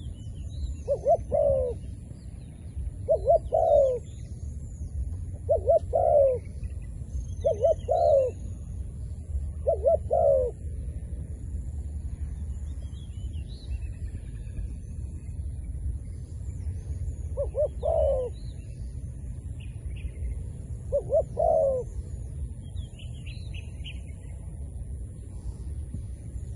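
Decoy dove cooing in short multi-note phrases: five phrases about two seconds apart, then after a pause two more. Faint small-bird chirps and a steady low rumble sit underneath.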